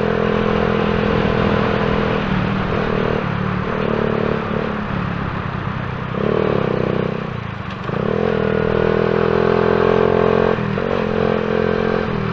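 A Shineray motorcycle's engine running while being ridden, with wind and road noise. The engine note wavers and shifts through the middle, then holds steady.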